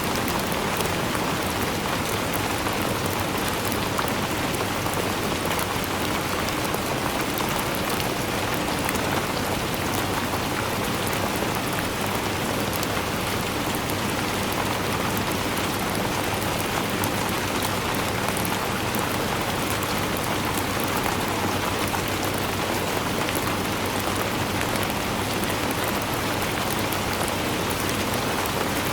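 Steady rain falling, an even hiss of many fine drops pattering on surfaces, with no change in strength.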